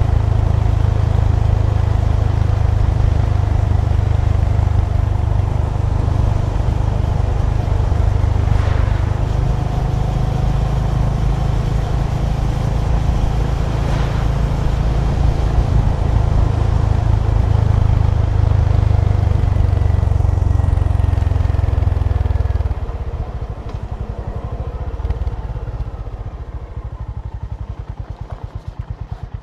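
Honda GB350's air-cooled single-cylinder engine running steadily under way, until the throttle closes about two-thirds of the way through and the engine drops back. Near the end it settles into an even, regular idle thump.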